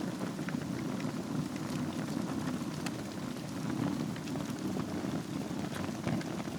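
Wood fire burning in a fireplace over glowing embers: a steady low rush of flame with scattered, irregular sharp crackles and pops.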